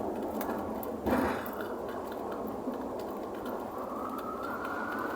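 Pigeons feeding on bird seed at a tray: quick, light pecking taps over a steady background hum, with a brief louder scuffle about a second in.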